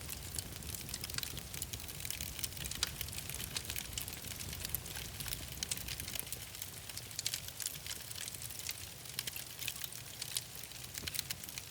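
Wood fire in a fireplace crackling, with many small sharp pops and snaps over a steady low rumble of the flames.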